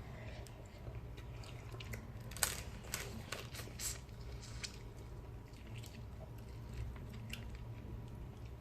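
Close-up eating sounds: chewing and biting into fried fish, with scattered short wet clicks and crunches, the loudest a little over two seconds in.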